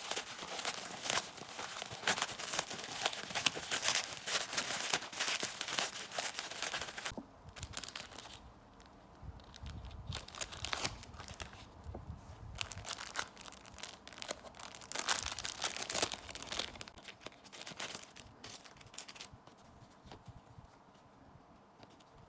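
Packaging crinkling and rustling as it is handled and unwrapped. It is busy for the first seven seconds or so, then comes in shorter bursts and thins out near the end.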